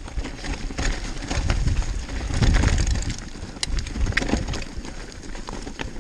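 Mountain bike rolling down a rocky trail: wind rumbling on the microphone, loudest about halfway through, with scattered clicks and clatter from the bike going over stones.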